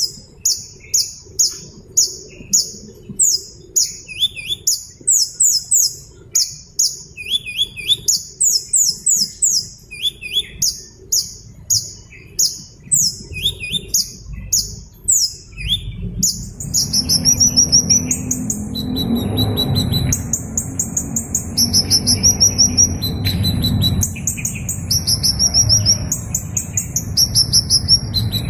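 Small bird chirping: a rapid, unbroken run of short, high chirps, each dropping in pitch, several a second. About halfway through, a low rumbling background noise comes in under the chirps, which carry on.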